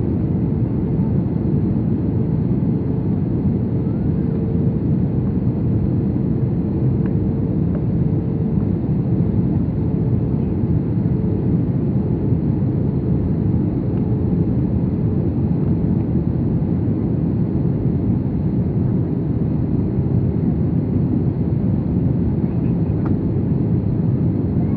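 Airbus A320 cabin during descent: a steady roar of engine and airflow noise, with a faint steady hum that weakens about halfway.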